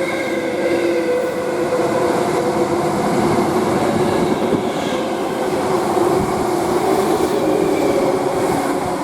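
Class 325 electric parcels unit passing on the main line: a loud, steady rush of wheels on rail with a steady multi-tone hum over it.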